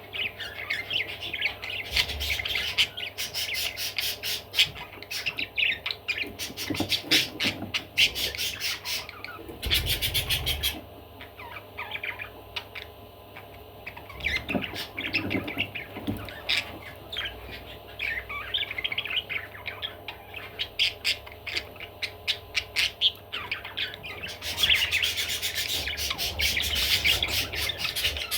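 Budgerigar chattering and warbling: runs of quick clicks, chirps and squawks in bouts, busiest near the end. There is a short rustling burst about ten seconds in.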